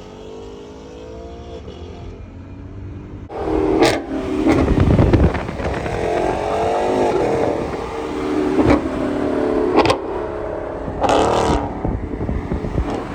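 A car engine revving hard. Its pitch rises and falls repeatedly, with a few sharp cracks, and it starts suddenly about three seconds in after a steadier engine drone.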